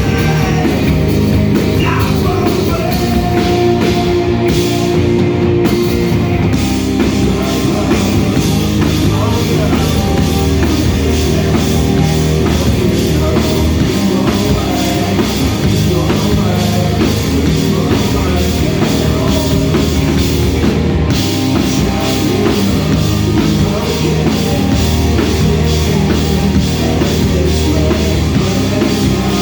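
Live rock band playing loudly: distorted electric guitars, bass and a fast drum-kit beat with cymbals, heard in a small club.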